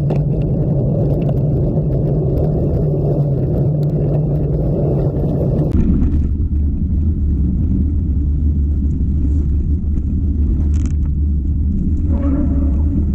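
Steady loud rumble of a mountain bike being ridden on a forest trail: wind buffeting the microphone and tyre and trail noise. The rumble changes character about six seconds in.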